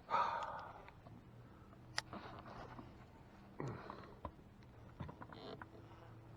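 Faint handling noises: a short rustle at the start, then a few scattered sharp clicks and soft scrapes over a low steady hum.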